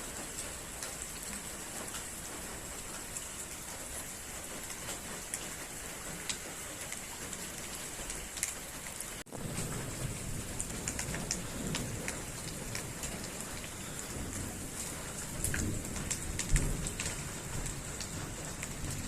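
Steady rain falling, with many close raindrop ticks. After a break about nine seconds in, a low rumble joins the rain, with one sharper knock near the end.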